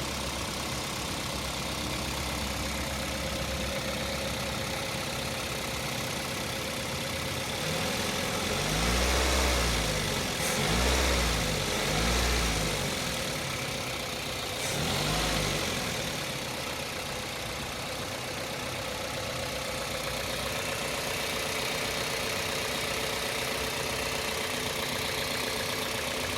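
Toyota Corolla Altis 1.8-litre four-cylinder engine idling, then blipped four times in quick succession about a third of the way in before settling back to idle. When the throttle is opened wide a hissing comes through that the owner takes for an air leak.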